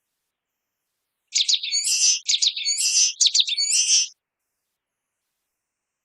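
Common waxbill singing: one song of three repeated high phrases, each a few short sharp notes followed by a longer drawn-out note, lasting about three seconds.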